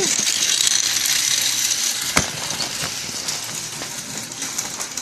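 Small battery-powered toy train running on its plastic track: a steady motor whir with fast rattling clicks from the wheels and track, growing fainter toward the end.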